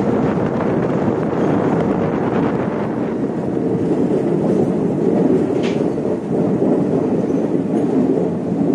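Passenger express train running on the rails: a steady rumble of wheels and carriages, with one brief faint squeak about two thirds of the way through.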